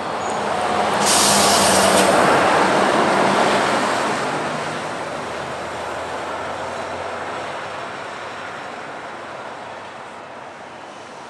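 A truck passing close by, its engine and tyres building to their loudest a second or so in and then slowly fading away. A brief sharp hiss cuts in about a second in.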